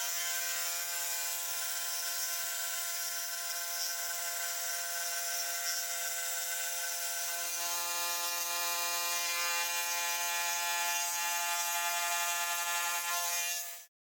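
An electric power tool running steadily with a high, even whine, its pitch shifting slightly about halfway through, then stopping abruptly near the end.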